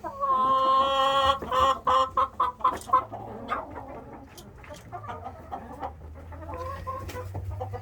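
Chickens clucking: a long drawn-out call at the start, then a quick run of short clucks, settling into softer, scattered clucking.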